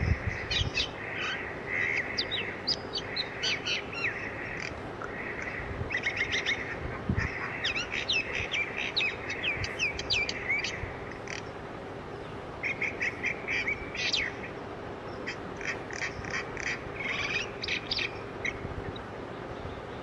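Birds chirping and twittering in quick clusters of short high chirps that thin out near the end, over a steady low hum.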